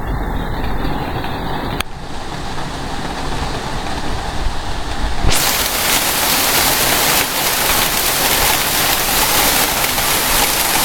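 Heavy storm rain pouring down in a steady rushing hiss that becomes fuller and brighter about five seconds in.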